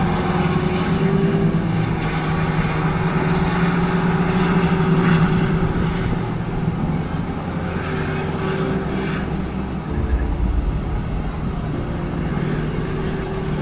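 A passenger train running in the distance: a steady engine drone with a low hum, over a haze of outdoor noise. The rumble swells briefly about ten seconds in.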